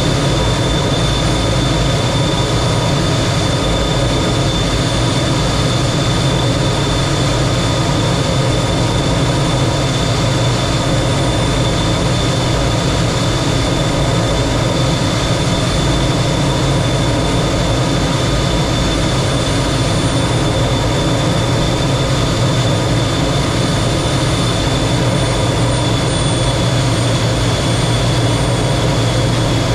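Lockheed T-33 jet trainer in flight: its Allison J33 turbojet running steadily, a constant rush of engine and air noise with a thin high whine held on one pitch throughout.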